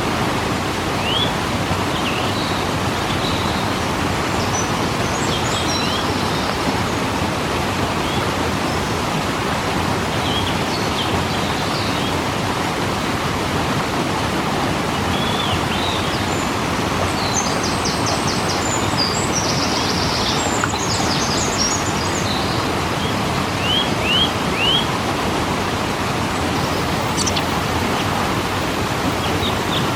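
Waterfall rushing in a steady, dense roar of falling water, with scattered short high chirps over it, a quick run of them near the middle.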